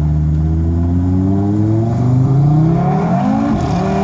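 Tuned Audi RS3's turbocharged five-cylinder engine under hard full-throttle acceleration, rising steadily in pitch, with an upshift about three and a half seconds in, after which it climbs again.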